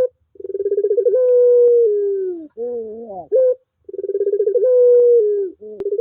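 Puter pelung dove cooing: each coo opens with a quick stutter of short notes that runs into a long, drawn-out note slowly sagging in pitch, heard twice, with a short rising call between them.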